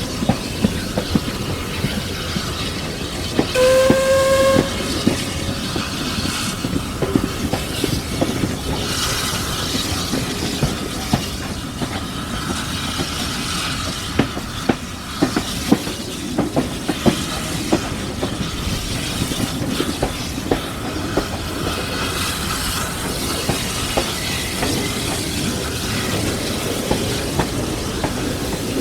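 A steam-hauled train running along the line, its wheels clicking over the rail joints, behind Caledonian Railway 0-4-4T steam tank locomotive No. 419. About four seconds in, the locomotive's steam whistle sounds once for about a second.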